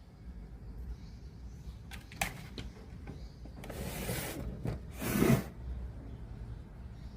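Handling noises: a few sharp clicks, then two short scraping rushes, the second the loudest, over a low steady hum.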